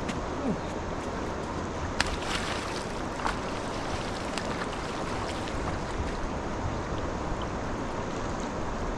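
Steady rush of river water, with a sharp click about two seconds in.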